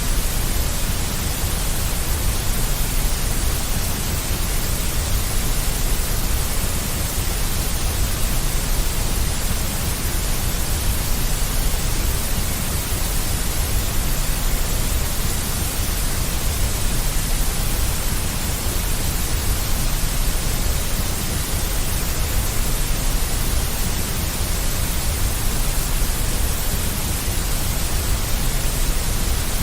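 Steady, deep synthetic noise, a white noise with its weight in the bass, unchanging and without any pattern.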